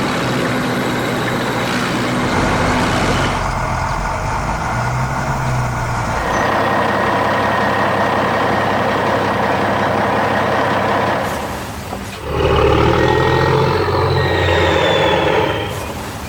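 Heavy construction-vehicle sound effects: dense engine and machinery noise that shifts in sections, with a louder stretch starting about twelve seconds in.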